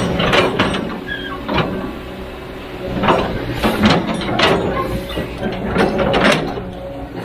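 A heavy machine's engine running steadily, with a dozen or so irregular sharp metallic clanks and knocks over it.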